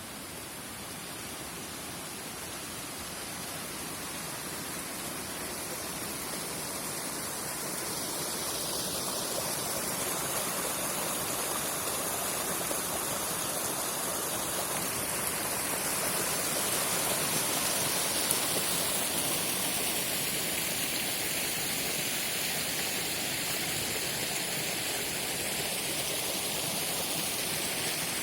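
Water running at a spring, a steady rushing that grows gradually louder over the first half and then holds even.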